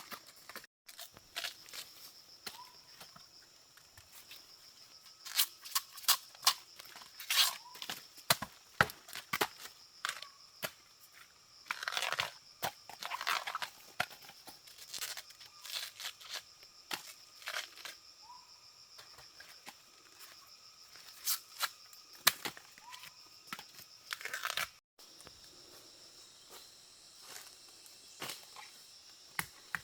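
Irregular snapping, crackling and rustling of dry plant material, some sharp cracks louder than others, over a steady high-pitched insect drone.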